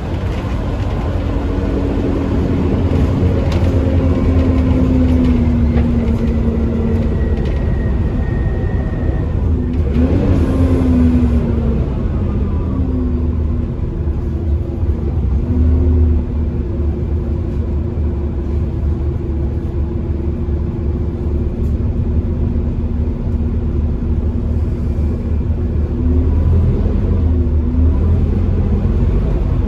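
Bus diesel engine driven hard, its pitch climbing and then dropping back again and again as it works up through the gears, over a steady rumble. A high whine runs along with it, the hoover-like whine the bus is known for.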